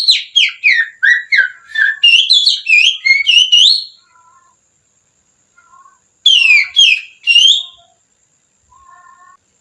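Finger whistling through the little fingers, imitating the song of a kacer (Oriental magpie-robin). Quick runs of loud, sliding whistled notes last about four seconds. After a pause, a shorter phrase of three notes follows.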